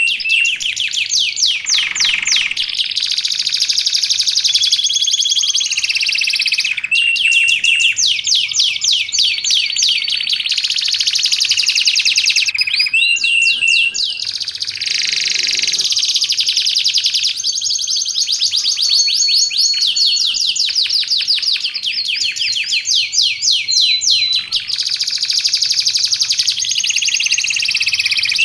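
Domestic canary singing continuously: long, varied song of rapid trills and rolls alternating with short held whistled notes, changing phrase every second or two.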